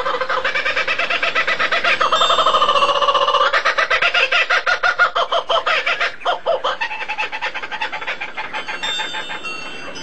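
Bird calls in a long, rapid chattering series of pulsed notes at several pitches at once. They are loudest a few seconds in and thin out toward the end.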